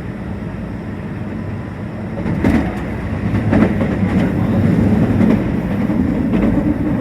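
Meitetsu 1800 series electric train running, heard from inside the car: a steady rumble that grows louder about two seconds in, with the wheels clacking over rail joints several times after that.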